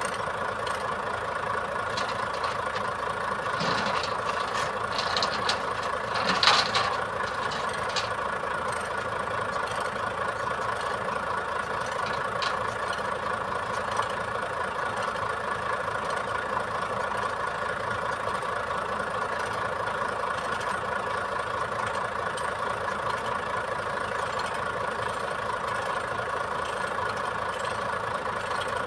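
Iveco boom truck's diesel engine running steadily at idle, with a brief louder burst of noise about six seconds in and a single click a little later.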